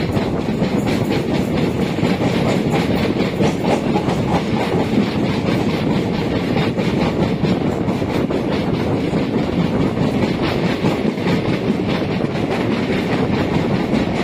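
Two passenger trains running side by side at speed, heard from the side of one of them: a steady rumble with a rapid clickety-clack of wheels over rail joints.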